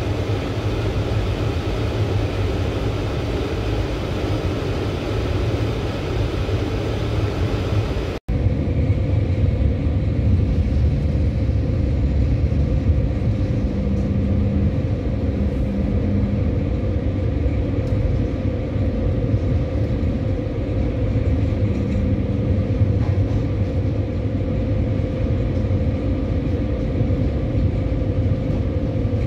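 Steady running noise of a moving passenger train, heard from inside the carriage. There is a momentary dropout about eight seconds in, after which the sound is deeper and duller.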